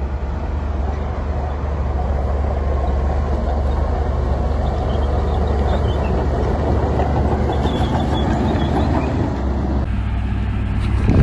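Heavy diesel earth-moving machinery, a dump truck or bulldozer, running with a steady low rumble. The sound changes abruptly about ten seconds in, and a few knocks follow near the end.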